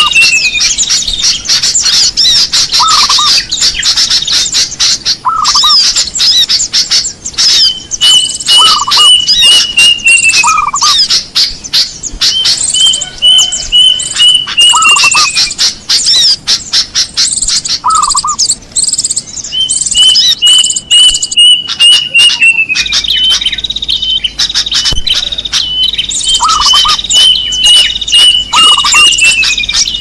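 Bird-lure recording of mixed small birds: a plaintive cuckoo's series of whistled notes, dropping in pitch at the end, comes about five times, over a busy chatter of chirping sooty-headed bulbuls. Short lower notes come between the phrases.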